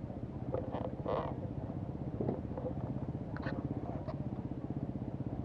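Off-road motorcycle engine idling with an even low pulse, with a few short faint sounds over it.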